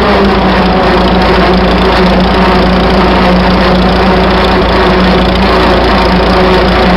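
A 1926 Fordson Model F tractor's four-cylinder engine running at a steady speed.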